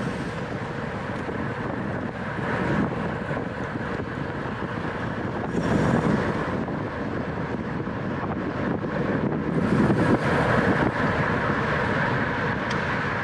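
Wind rushing over the microphone of a bicycle racer at speed, with road and bike noise from the pack underneath; the rush swells briefly about six seconds in and again about ten seconds in.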